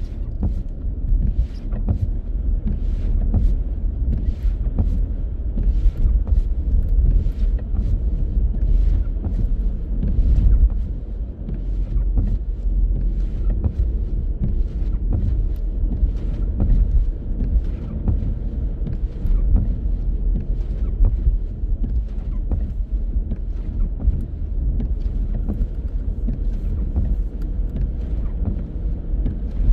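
Car driving on city streets: a steady low road rumble with frequent short knocks and rattles scattered through it.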